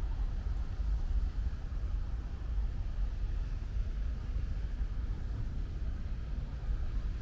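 Steady low rumble of road traffic, with a fainter hiss of light rain.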